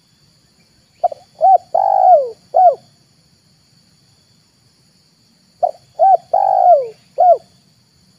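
Spotted dove cooing: two phrases of four coos each, a few seconds apart, the third coo in each the longest and falling in pitch. A faint steady high insect whine runs behind.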